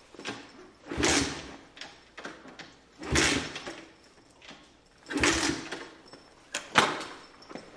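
A wrecked dirt bike tried three times without starting: three short rough bursts about two seconds apart, none of them catching into a running engine, then two sharp clicks near the end.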